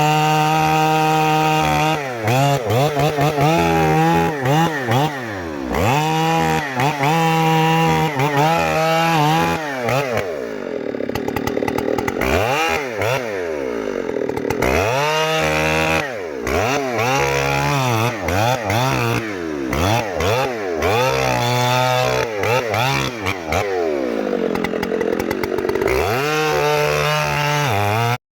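Chainsaw cutting into a tree trunk, its engine pitch dropping repeatedly as the chain bogs down in the wood and climbing again as the load eases.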